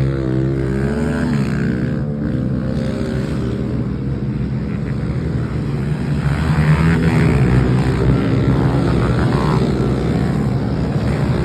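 Dirt bike engine running, with a brief rise and fall in revs about a second in, then running at a fairly steady speed.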